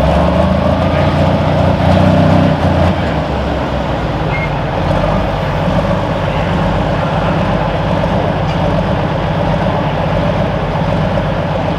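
Heavy diesel engine running steadily, a little louder in the first three seconds and then holding an even note.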